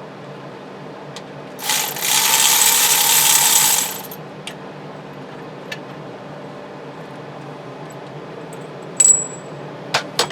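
Ratchet and spark-plug socket backing out a loose spark plug on a 1976 GMC motorhome's Oldsmobile 455 V8. There is about two seconds of fast ratcheting, then a few sharp metallic clicks and a short ringing clink near the end.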